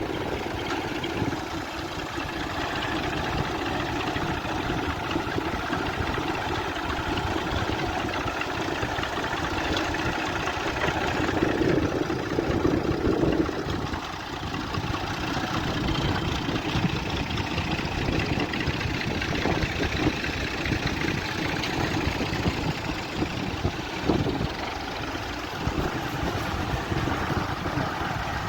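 A vehicle engine running steadily for the whole stretch, with a dense rapid low pulsing.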